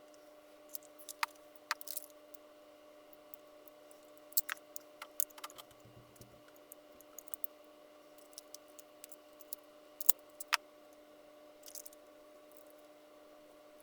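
Scattered small clicks and taps of objects being handled, irregular and sharp, the loudest pair about ten seconds in, over a steady low electrical hum.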